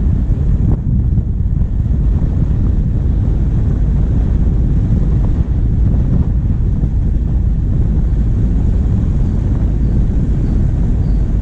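Diesel vehicle driving steadily, heard through a bonnet-mounted camera: a low engine rumble mixed with wind buffeting the microphone. A few faint high chirps come near the end.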